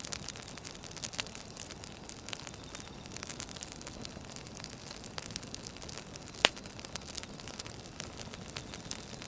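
Firewood burning and crackling: a steady hiss with many small pops, and one loud snap about six and a half seconds in.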